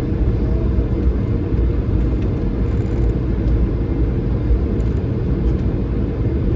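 Steady low rumble inside the cabin of an Airbus A220-300 taxiing, its Pratt & Whitney PW1500G geared turbofan engines running along with the rumble of the rolling airframe.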